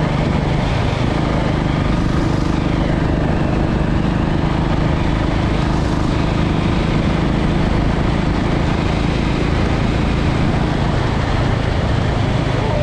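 Motorcycle engine running at a steady speed while riding, with wind noise rushing over the microphone.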